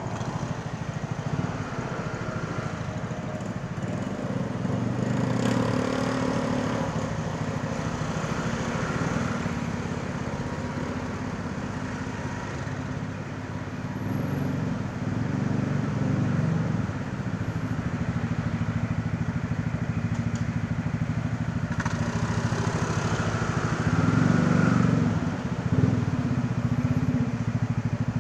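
Honda ADV 160 scooter's single-cylinder engine running through its stock exhaust while riding, the engine note rising and falling with the throttle a few times, over wind and road noise.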